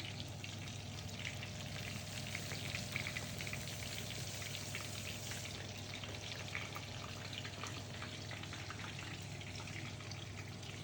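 Food frying in hot oil in a pan: a steady sizzle made of many small crackling pops, over a low steady hum.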